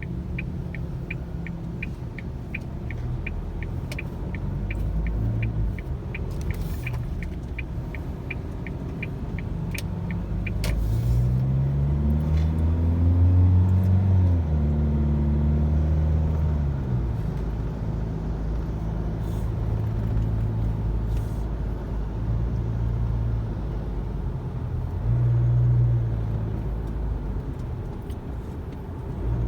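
Car engine running with steady low road rumble. For the first ten seconds there is an even, rapid ticking, about three ticks a second. Then the engine note rises in pitch as the car accelerates and settles again.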